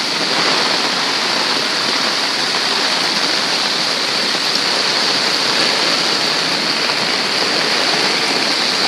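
Fast floodwater from an overflowing creek rushing steadily through a street, a loud, even rush of water.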